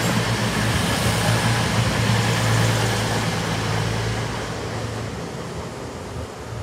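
CrossCountry Voyager diesel multiple unit passing through, a steady low hum from its underfloor diesel engines mixed with running noise from the wheels. The sound fades away after about four seconds as the rear of the train passes.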